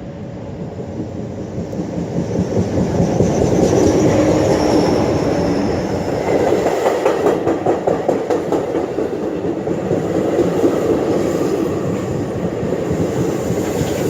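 NJ Transit ALP-45DP locomotive and Bombardier MultiLevel coaches running close by on the Raritan Valley Line, the wheels clacking on the rails with some squeal. The noise builds over the first four seconds as the train draws near, then holds.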